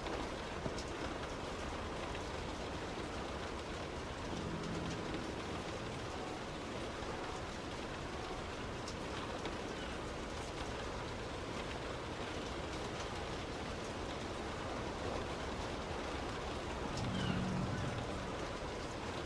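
Heavy rain pattering on a moving car over steady road noise, with scattered small drop ticks. A brief low hum comes in about four seconds in and again, slightly louder, near the end.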